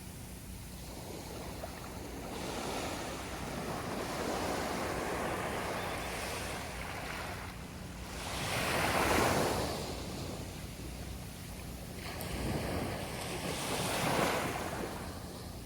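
Sea waves washing onto a beach in slow swells, the biggest breaking about nine seconds in and another just before the end.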